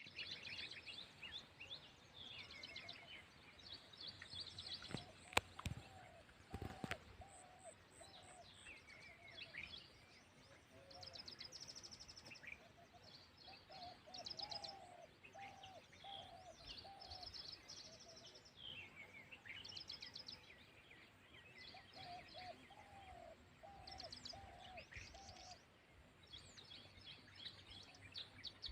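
Several wild birds chirping and singing, with short high chirps and trills throughout and, now and then, a bird calling a run of five or six lower, falling notes. Two sharp clicks stand out about five and seven seconds in.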